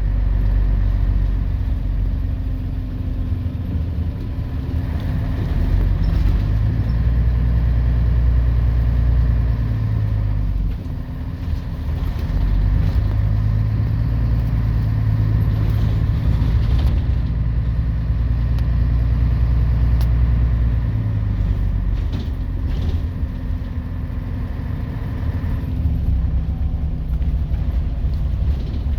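Scania CN113CLL city bus's DSC 11.71 six-cylinder turbo diesel engine running, its low drone rising and easing several times, with a short dip about eleven seconds in and a quieter spell a little past twenty seconds.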